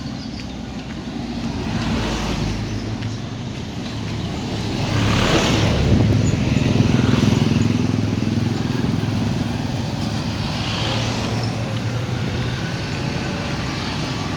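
Road traffic: motor vehicles running past with a steady engine hum, swelling louder about five seconds in as one passes close.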